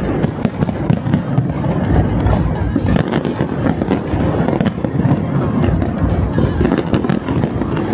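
Fireworks display: a continuous low booming of aerial shells with many sharp crackles scattered through it, and the show's music playing alongside.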